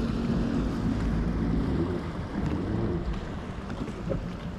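Wind rumbling on the microphone over the steady hum of a watercraft engine, which fades out about a second in.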